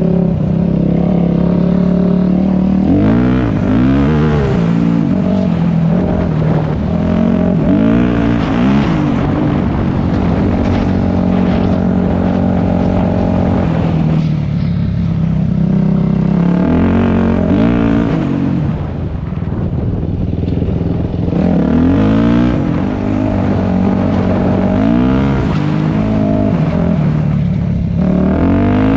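Dirt bike engine under way on a trail, its revs repeatedly rising and falling as the rider opens and closes the throttle and shifts, with a slightly lower, steadier stretch past the middle.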